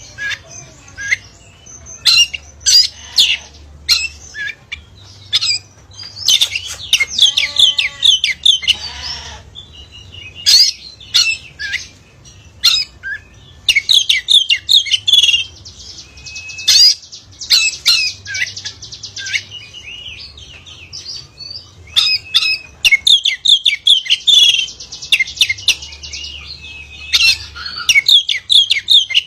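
Oriental magpie-robin (kacer bukor) singing: varied whistled phrases and rapid chattering trills in repeated bouts, with a lower, falling call about eight seconds in. A faint low hum runs underneath.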